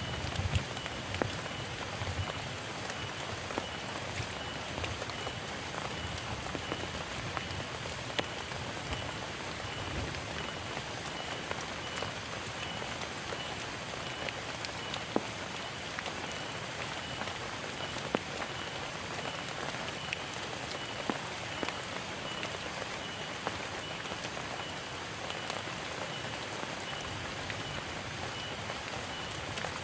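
Heavy rain falling steadily, with many individual drops striking sharply on a near surface.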